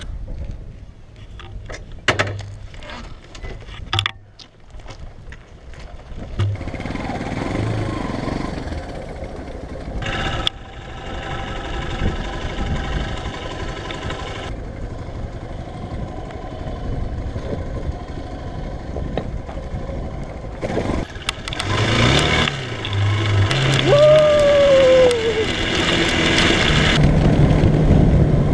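A few knocks and handling noises, then a Ronco X-Terra 250cc motorcycle's engine starts about a quarter of the way in and runs. It gets louder as the bike rides off along a dirt track in the last part.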